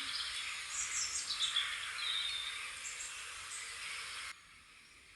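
Small birds chirping and singing over a steady outdoor hiss. The sound cuts off suddenly about four seconds in, leaving only faint background.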